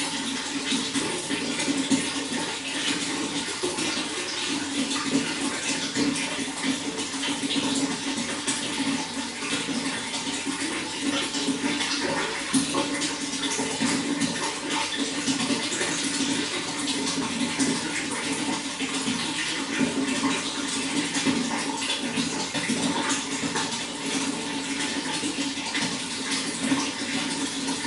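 Running water flowing steadily: a continuous rushing splash with no breaks.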